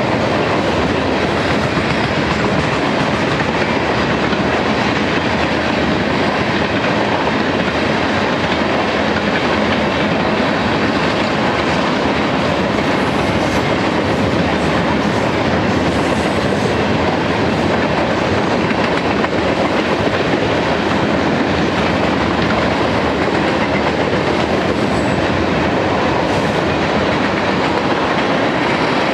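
Freight cars of a passing manifest train (covered hoppers, tank cars and boxcars) rolling by: steady, loud wheel-on-rail noise.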